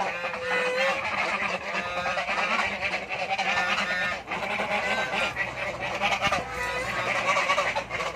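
A flock of geese honking, with many short calls overlapping continuously.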